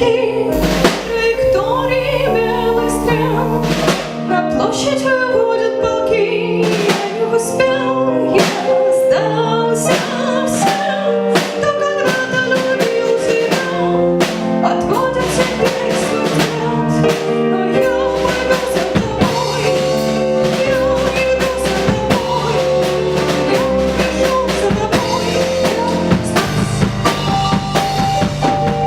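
Live band playing a song: a drum kit keeps a steady beat under a female singer's voice, with long held notes above it.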